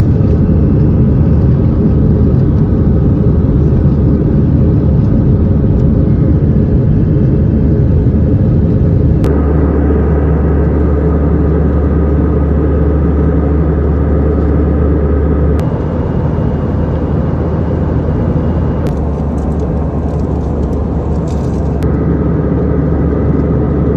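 Steady loud rumble of engine and airflow noise in an Airbus A320 cabin in flight. Its low drone changes abruptly about nine seconds in and again about sixteen seconds in.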